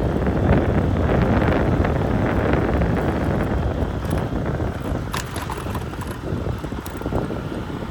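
Wind buffeting the microphone: a loud, uneven low rumble that eases somewhat in the second half, with a few faint clicks.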